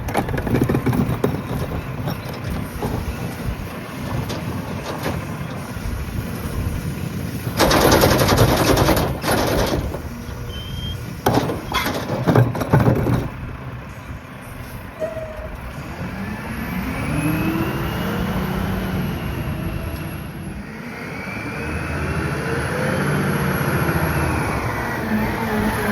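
Mack rear-loader garbage truck's diesel engine running, with a loud hiss of air about a third of the way in and a few shorter hisses after it. The engine then revs up and back down twice as the Heil PowerTrak packer runs its packing cycle.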